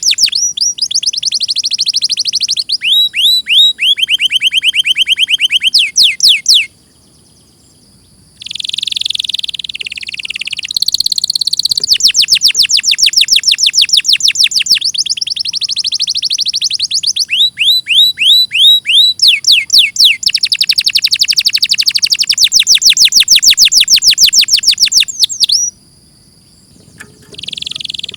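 Domestic canary singing its long song: fast trills, each a run of one high note repeated many times a second, switching to a new note every few seconds. The song breaks off briefly twice, about seven seconds in and near the end.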